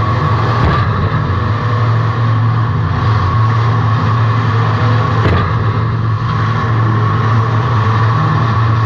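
Race car engine running steadily under load, heard from inside the car, with road and tyre noise. Two brief knocks come through, about a second in and about five seconds in.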